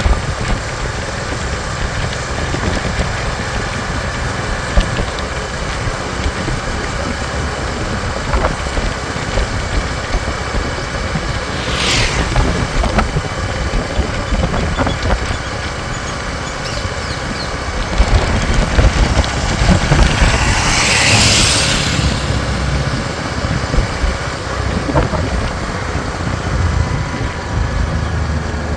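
Motorcycle engine running steadily on the road, with a constant low rumble of engine and road noise. A brief hiss comes about twelve seconds in, and a louder rushing sound swells and fades around twenty seconds in.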